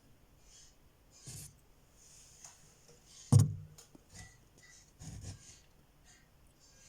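Scattered rustling and handling noises, with one sharp knock about three and a half seconds in.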